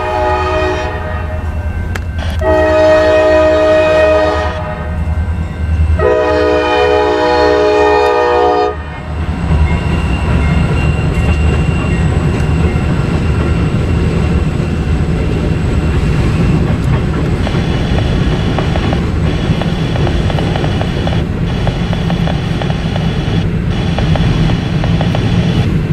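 Freight locomotive air horn sounding chord blasts for a grade crossing: one ending about a second in, then two long blasts. After that the train rumbles past, its wheels clacking over the rail joints.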